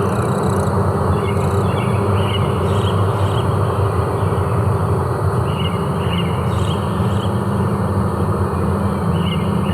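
Forest ambience: a steady low hum over a constant rushing noise, with short high chirps recurring every second or so.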